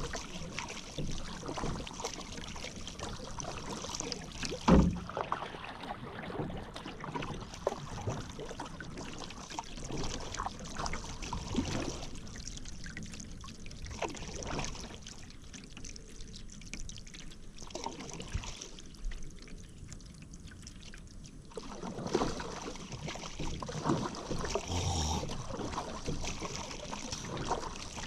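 Paddle strokes dipping and splashing in river water, with drips between strokes. One loud thump about five seconds in; the strokes die down to a quieter stretch in the middle and pick up again near the end.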